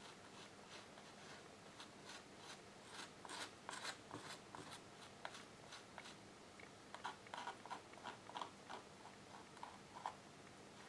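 Faint scratching of a small hand tool on watercolour paper in short strokes that come in bursts, as colour is touched up over a repaired tear.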